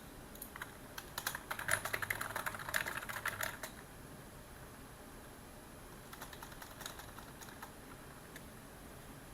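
Computer keyboard typing: a quick run of keystrokes for a couple of seconds, then a pause, then a lighter, more scattered burst of keys.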